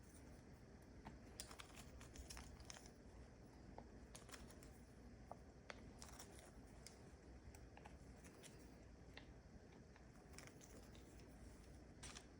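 Near silence with faint, scattered clicks, taps and light rustles of small objects being handled.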